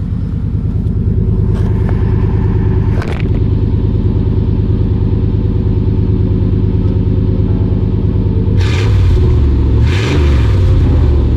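Exhaust of a 1990 Chevy K1500 pickup through a Flowmaster FX muffler and high-flow catalytic converter, idling steadily on a cold start, with two quick revs near the end.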